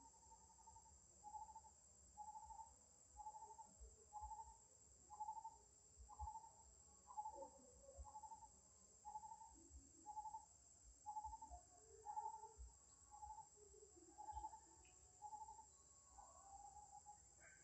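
A bird repeating a single short hooting note about once a second, with a steady high insect drone behind it.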